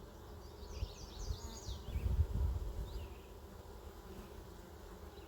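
Honey bees buzzing around an open hive being inspected, a steady low hum. A few low rumbles come about two seconds in, and a quick run of high chirps comes a second or so in.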